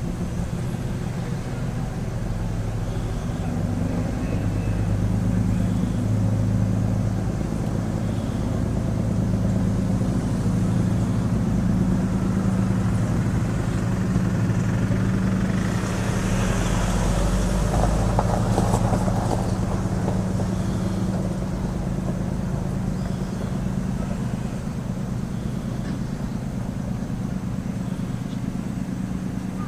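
A boat's diesel engine running steadily, a low hum that swells slightly and eases off again, with a brief rush of noise around the middle.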